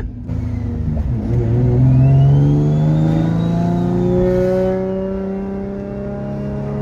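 Turbocharged G35's V6 engine pulling under load, its pitch climbing gradually, with a thin high whine above it that rises and then eases off.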